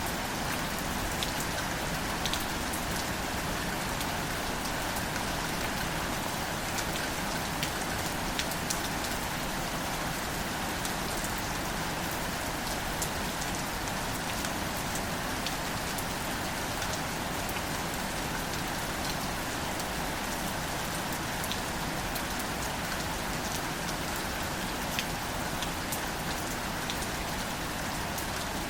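Steady gentle rain falling on wildflowers and foliage, a constant hiss dotted with the fine taps of individual drops.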